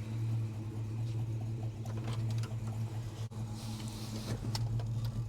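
Holden HK engine idling at a lowered idle with a steady low hum and no lifter tick to be heard; it is running rough, with the ignition timing out.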